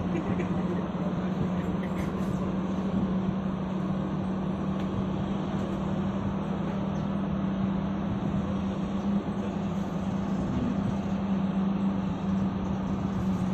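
Large diesel engine running steadily at a constant speed, with a strong, even low hum.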